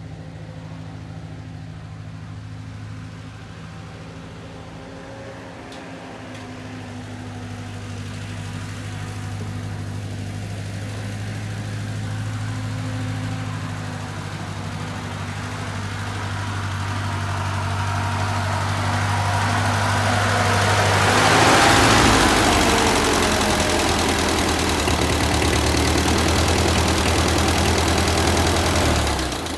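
Vehicle engine running steadily, growing louder over about twenty seconds as it comes closer, loudest about two-thirds through, then cutting off abruptly just before the end.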